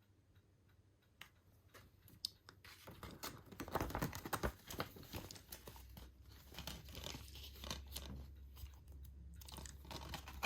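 Rustling and crinkling of a paper cover sleeve against a plastic Blu-ray keep case, with small plastic clicks, as the case is opened and its reversible sleeve is slid out and turned over. It starts after about two seconds of near quiet.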